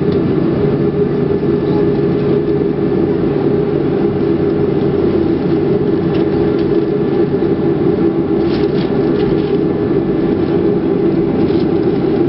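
Steady drone inside the cabin of a Boeing 737-400 airliner: the CFM56 turbofan engines and airflow, an even hum strongest in its low-middle range.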